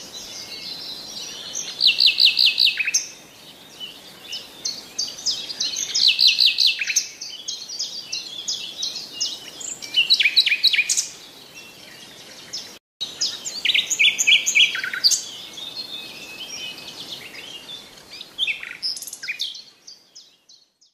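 Birdsong: bursts of rapid, trilled high chirps repeating every few seconds over a faint steady hiss. The sound cuts out briefly just past the middle and fades away near the end.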